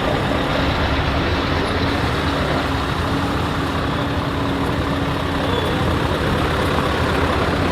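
Heavy truck engine running steadily, with a constant low hum.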